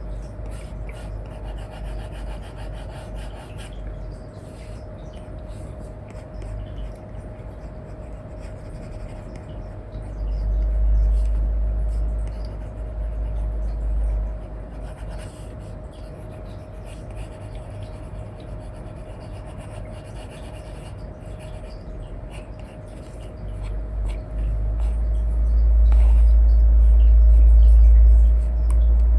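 Stylus nib (Apple Pencil 2 with an Elecom nib) rubbing in short, scratchy strokes across a paper-like screen protector on an iPad, over a steady faint hum. A deep low rumble swells twice, the second time near the end and louder.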